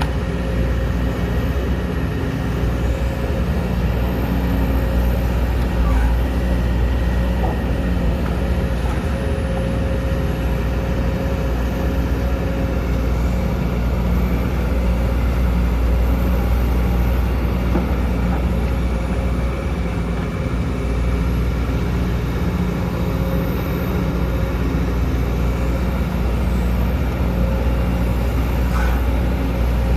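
Sumitomo SH210 excavator's diesel engine running steadily and loudly, with a deep, even drone and a thin high whine above it. A few faint clicks or knocks come through now and then.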